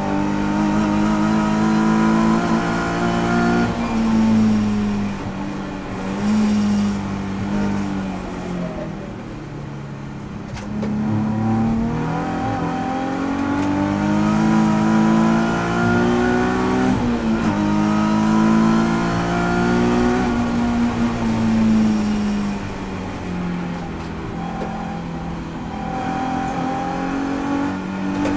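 Nissan 350Z race car's V6 engine heard from inside the cabin, pulling hard through the gears: the pitch climbs, drops sharply at an upshift, then falls away twice as the driver lifts off for corners before accelerating again.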